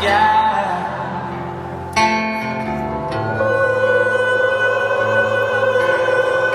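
Live rock band playing an instrumental passage with guitar over long held bass notes that change every second or two.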